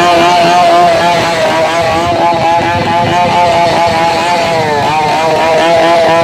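A vehicle engine running through its exhaust at a steady high speed, its pitch wavering slightly, then dipping and coming back up about five seconds in.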